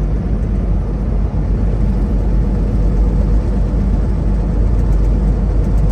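Semi-truck engine and road noise heard inside the cab while driving: a steady low rumble.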